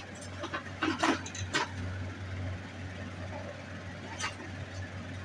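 A few sharp clicks and knocks of small metal pieces and tools being handled on a jeweller's workbench, over the steady hum of a running fan.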